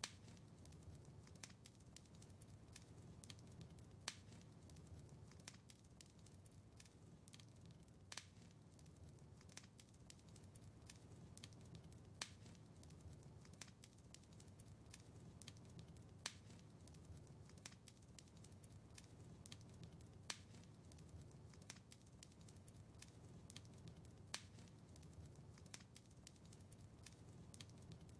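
Faint wood fire crackling in a fireplace: a soft low rumble of flames with many small crackles and a sharper pop about every four seconds.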